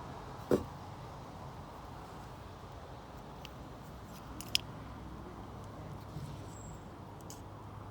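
A few light clicks and taps of small carburetor parts being handled while the float is fitted, with a sharp click about half a second in and another past the middle, over a steady low hum.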